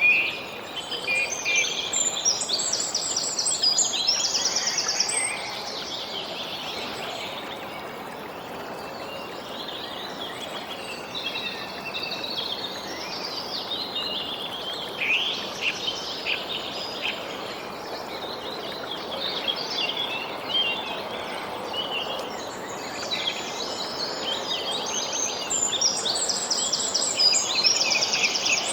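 Several birds chirping and singing at once, busiest near the start and again near the end, over a steady background hiss.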